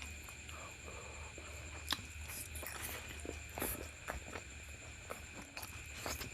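Close-up eating sounds of a person chewing and biting soft food, with irregular wet clicks and smacks and one sharper click about two seconds in. A faint steady high whine sits underneath.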